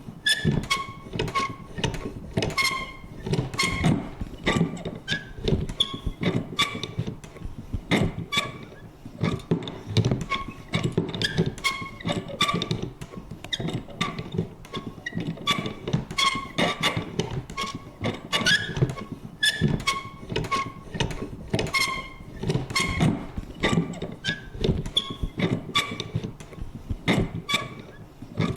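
Vintage paper punch worked over and over: a dense, irregular run of clicks and thunks with short, high creaks, several a second.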